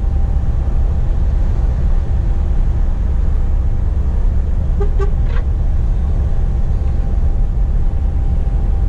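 Scania P420 truck running on the road, heard from inside the cab: a steady low engine and road rumble with a faint steady tone. There are a couple of small clicks about five seconds in.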